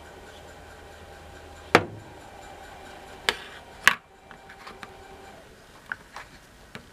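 The plastic lint filter of an RCA portable washing machine being popped out and handled: one sharp snap about two seconds in, two more clicks about a second and a half later, then a few lighter taps.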